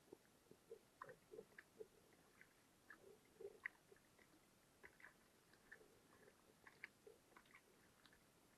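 Faint, irregular small clicks and ticks, a few a second, over near silence.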